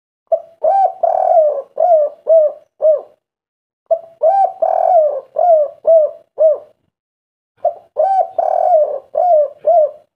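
Spotted dove (tekukur) cooing its 'kuk 3' song: three phrases about a second apart, each a run of low coos that ends in three short separate 'kuk' notes.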